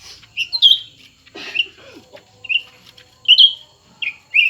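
Cucak ranting birds giving a series of short, sharp chirps, about seven notes spaced a half second to a second apart, as two birds face off against each other.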